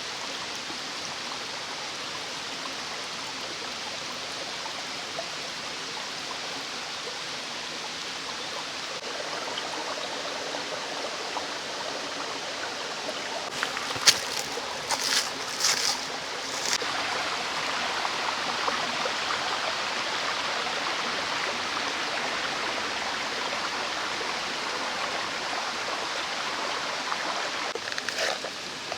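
Mountain stream flowing, a steady rush that grows louder about ten seconds in. A handful of sharp clicks or knocks come about halfway through, the first the loudest, and a few more near the end.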